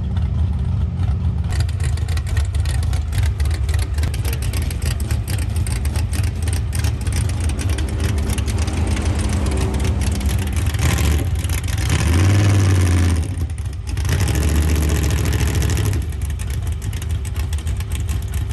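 A vehicle's engine and road noise while driving. About twelve seconds in, the engine pulls harder for a moment, then briefly eases off before settling back.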